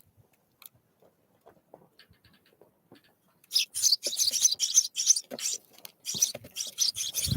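Small bird pecking at and cracking seeds at a feeder close to the microphone: after a quiet start, rapid irregular runs of crackly taps begin about halfway in, ending with a dull thump.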